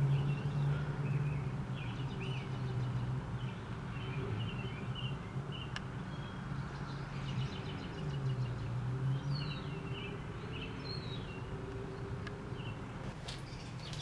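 Small birds chirping in short, scattered calls, over a steady low hum that fades for a few seconds in the middle and then returns.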